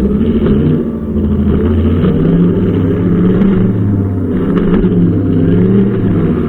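Brushcutter's small engine running steadily, its pitch wavering slightly up and down.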